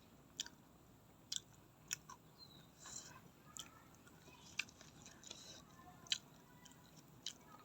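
Close-up chewing of crunchy raw vegetables, with sharp crunches about once a second between softer chewing.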